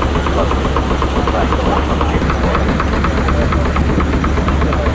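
An engine running steadily, with a deep hum and a regular ticking about five times a second.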